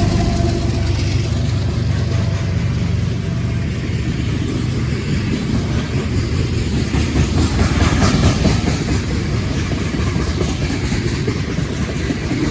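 Freight train of gondola cars rolling steadily past close by: a loud rumble and clatter of steel wheels on the rails.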